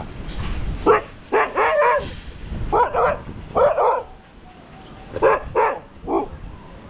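Huskies barking, about eight short barks in loose clusters.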